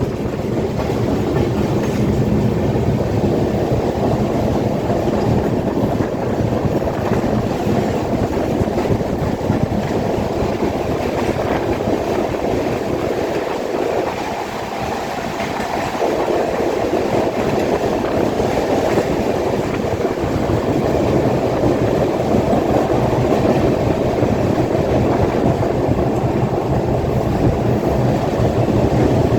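Passenger train running on the track, heard from on board: steady noise of wheels on rails, briefly quieter about halfway through.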